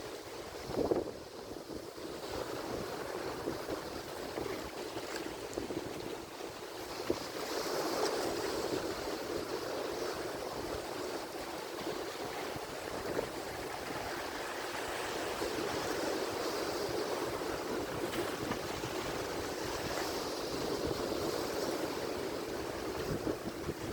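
Ocean surf washing continuously, swelling and easing as waves break and run in, with a short louder splash about a second in.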